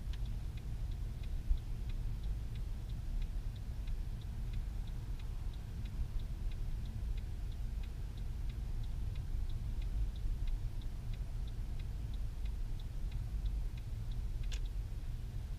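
Car turn-signal indicator ticking steadily at about three ticks a second over low cabin and road rumble, ending near the end with one sharper click.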